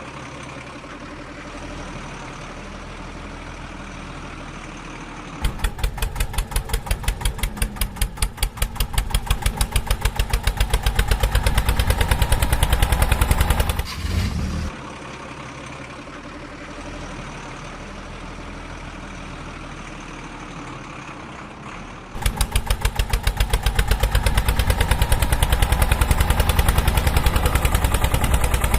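A motor vehicle engine idling, then twice going to a loud, rapid, even chugging as it is worked harder: first from about five seconds in, growing louder until it drops back to idle near the middle, then again from about three quarters of the way through.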